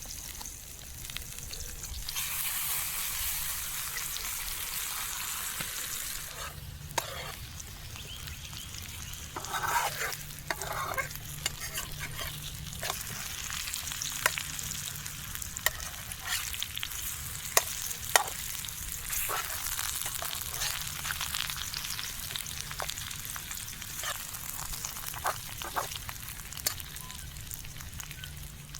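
Mushrooms and potatoes frying in a pan with a steady sizzle that gets louder about two seconds in. A utensil stirs and scrapes the pan now and then, making scattered clicks.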